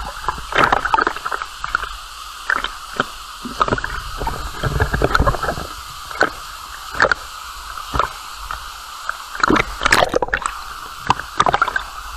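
Water splashing and sloshing in quick, irregular bursts over the steady rush of a waterfall.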